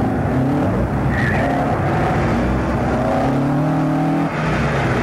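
Car engine revved hard through a cone slalom, its note climbing and falling, with a brief tyre squeal about a second in. A long climb in revs drops off sharply near the end.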